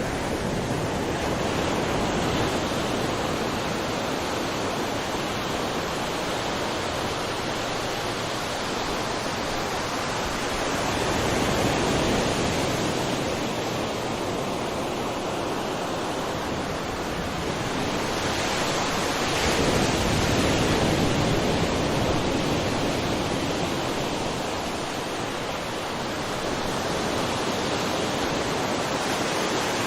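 Sea waves surging and washing ashore in a continuous rush. The surf swells and eases several times, loudest about two-thirds of the way through.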